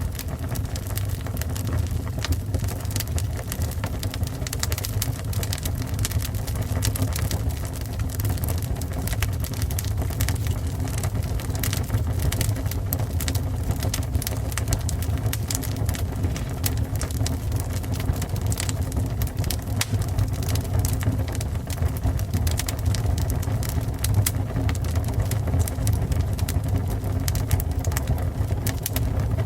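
Fire burning: a steady low roar with dense, irregular crackles and pops throughout.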